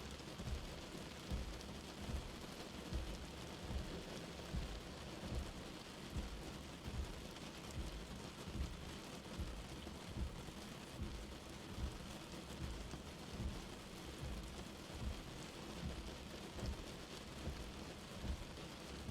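Light rain falling steadily as an even hiss, with soft low thuds about once a second.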